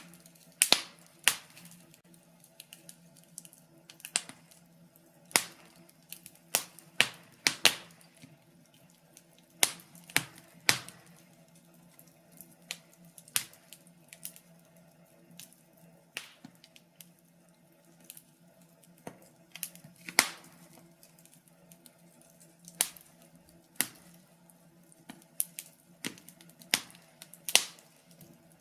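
Wood fire crackling in a fireplace: irregular sharp pops and snaps, one to three a second and unevenly spaced, over a faint steady low hum.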